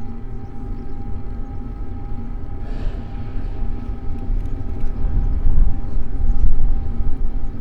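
Wind buffeting the microphone of a bike-mounted camera while riding, with a dense low rumble that grows louder in the second half. A steady, high thin whine runs underneath, and a short hissing swell comes about three seconds in.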